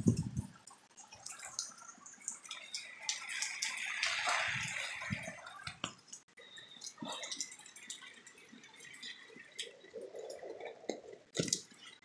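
Heavy rain falling, with drops dripping and tapping irregularly close by over a soft hiss of rain.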